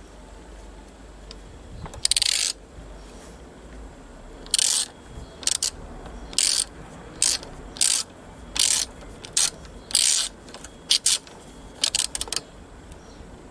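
A hand ratchet clicking in a run of about a dozen short strokes, tightening the clamp that holds the throttle cable at the lawn mower's carburettor.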